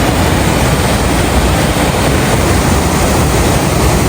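Waterfall pouring: a loud, steady rush of falling water, heaviest in the low end.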